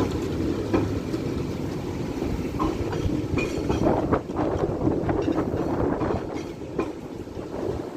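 A Tatra KT3R articulated tram running on its rails, its wheels knocking irregularly over rail joints and points under a steady running rumble.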